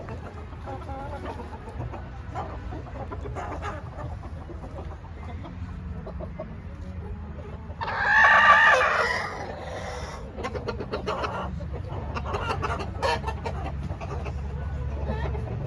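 A rooster crows once, loud and drawn out, about eight seconds in, among softer clucking of chickens, over a steady low rumble.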